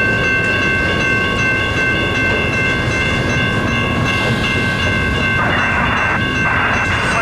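Intermodal freight train rolling past: a steady rumble of wheels on rail with high steady ringing tones over it, and a harsher grinding patch near the end.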